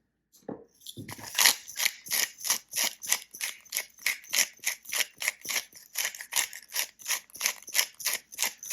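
Knife cutting raw chicken on a cutting board: a steady run of short, crisp strokes, about three a second, starting about a second in.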